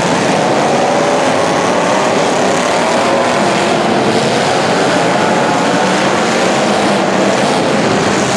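Several racing vehicle engines running hard together, their pitches wavering up and down as they rev.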